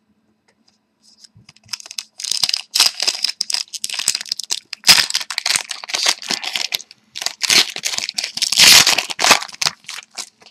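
Hockey trading cards and their packaging being handled, crinkling and rustling in irregular scratchy bursts that start about a second and a half in.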